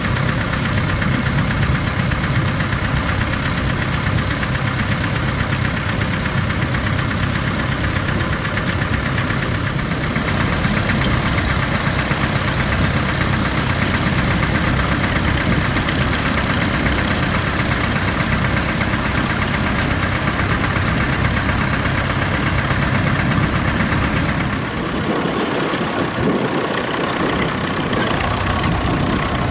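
Tractor engine running steadily; its note changes about 25 seconds in, the deep low end briefly falling away.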